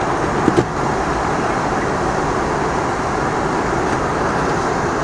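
Steady flight-deck noise of an Embraer ERJ 145, the hum of its turbofan engines and rushing air, with two short clicks about half a second in.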